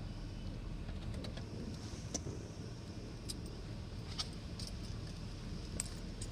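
Automatic car wash heard from inside the car: a low steady rumble with scattered sharp ticks and taps.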